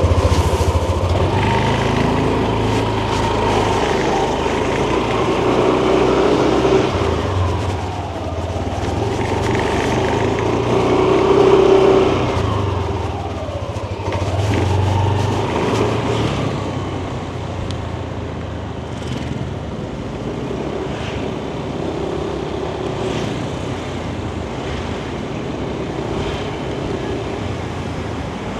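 A Yamaha Nmax 155 scooter's single-cylinder engine riding through traffic, its note rising and falling several times with the throttle and loudest about twelve seconds in. After about sixteen seconds it settles to a steadier, quieter cruise.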